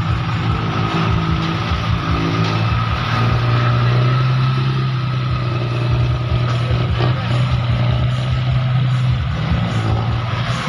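Six-wheel dump truck's diesel engine running steadily under load, its pitch rising near the end as it revs up.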